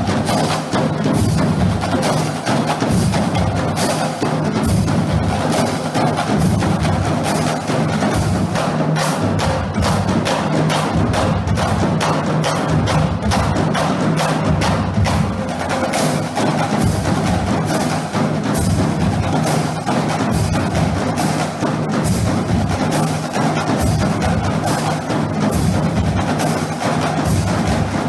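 Marching drumline playing a cadence: rapid snare and tenor strokes over pitched bass drums, loud and continuous.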